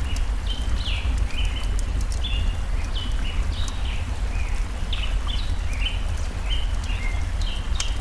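Small birds chirping, many short quick notes one after another, over a steady low rush of stream water, with scattered sharp crackles from a wood fire.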